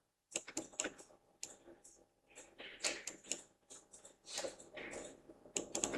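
Faint, scattered clicks of a computer mouse and keyboard, a few at a time with short gaps between.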